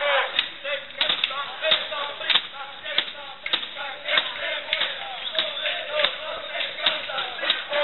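Protest crowd shouting and chanting, many voices overlapping, with sharp knocks or bangs at irregular intervals, several to the second at times.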